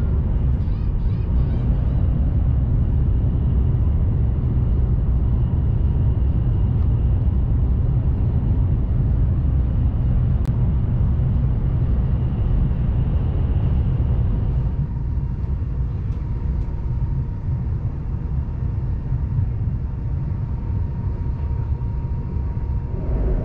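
Steady low rumble and hum of a high-speed train heard from inside the passenger cabin, with a faint steady whine above it. About fifteen seconds in it drops to a quieter, thinner hum.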